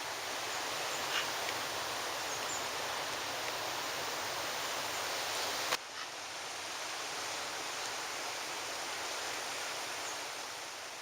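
Steady outdoor rainforest background, an even rushing hiss like air moving through foliage, with one sharp click a little past the middle.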